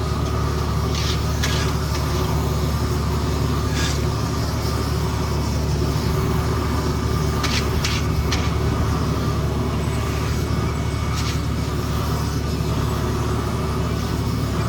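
Heavy diesel paving equipment running steadily, with a few short clanks or scrapes scattered through.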